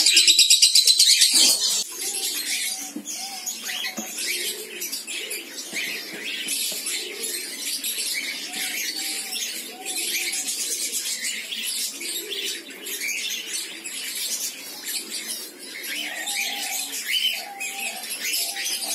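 Cockatiel chicks begging to be fed. A loud, rapid run of rasping pulses fills the first second and a half, then irregular high chirps and squawks carry on throughout.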